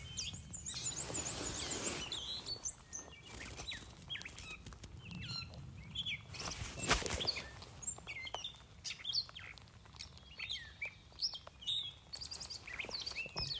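Several small songbirds chirping and singing, short trills and whistled notes overlapping, with one sharp click about seven seconds in.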